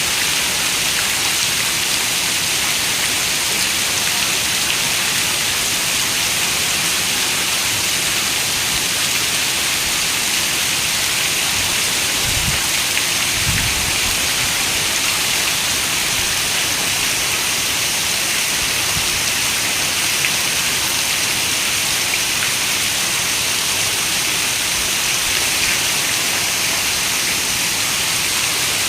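Steady rain falling, a dense even hiss of many drops with most of its energy in the upper range. Two brief low thuds sound near the middle.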